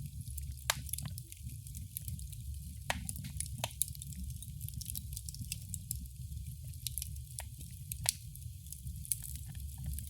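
Wood fire burning in a fireplace: a steady low rumble with constant fine crackling and a few sharper, louder pops scattered through, the loudest about 8 seconds in.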